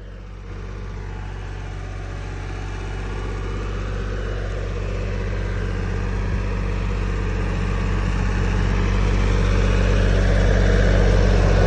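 Tractor engine running steadily, growing gradually louder throughout.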